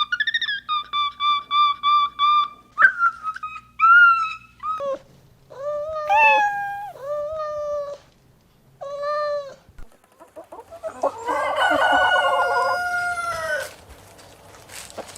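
Chickens calling: a quick run of repeated clucks, then a series of separate short calls, and a long rooster crow near the end.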